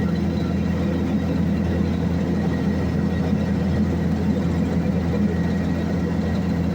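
Heavy engine of an asphalt paving machine running steadily, with a faint steady high whine over the deep engine drone.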